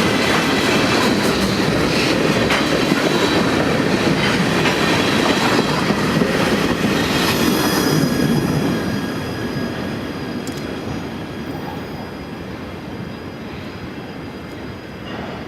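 A train rolling past close by, wheels on the rails with a thin squeal, then fading away over the last several seconds as it moves off.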